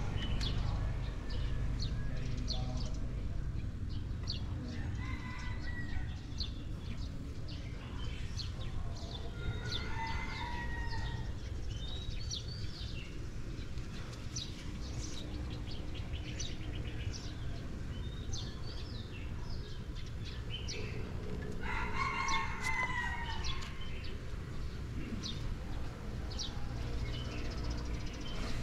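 Birds calling: frequent short chirps throughout, with three longer drawn-out calls, the loudest about three-quarters of the way through, over a steady low rumble.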